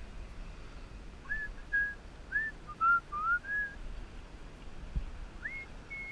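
A person whistling a tune: a quick run of short sliding notes, then a rising note held long near the end.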